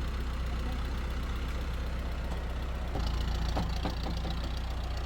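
A steady low engine hum, like an engine idling, with a few short clicks about three and a half seconds in.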